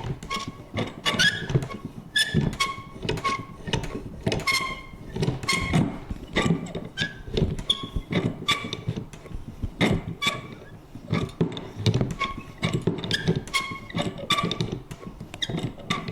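Vintage paper punch worked over and over: quick clacks with short squeaky creaks, coming irregularly at about two to three a second.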